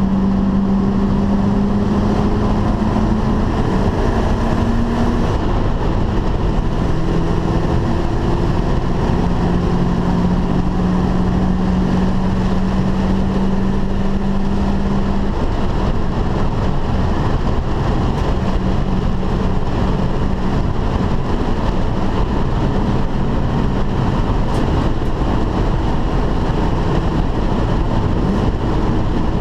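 Ford Mustang GT's V8 engine driven hard, heard from inside the cabin over loud road and wind noise. Its pitch climbs and then drops back several times as it is run up and shifted.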